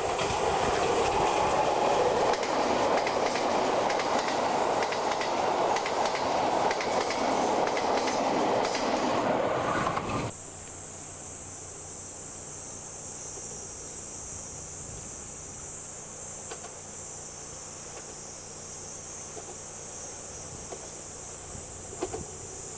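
A train passing close by on the rails, a loud rushing clatter of wheels that cuts off abruptly about ten seconds in, leaving a steady, much quieter background with a faint high hiss.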